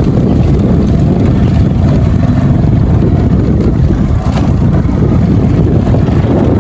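Loud, steady wind rumble on the microphone from riding a motorbike, with the bike running underneath.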